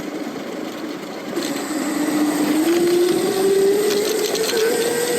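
Electric motor of a Lightning Rods-driven titanium e-bike whining under power, its pitch rising steadily from about a second and a half in as the bike speeds up, over wind and road noise.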